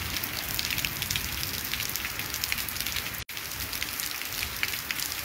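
Steady rain falling, with many sharp ticks of close drops over the even hiss of the downpour; the sound cuts out for a split second about three seconds in.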